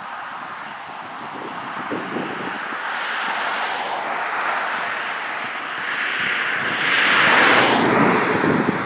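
A passing vehicle: a rushing noise that builds gradually to a peak late on, then falls away sharply.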